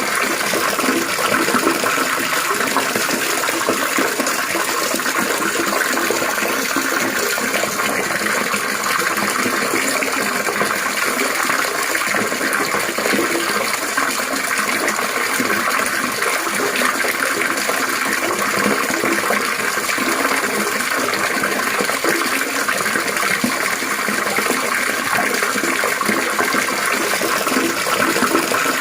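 Running water babbling and splashing steadily, an unbroken trickling rush without pauses.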